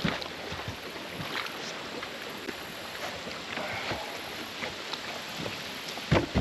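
Small boat on the river, a steady hiss of water and wind with scattered light knocks, and two heavy thumps near the end.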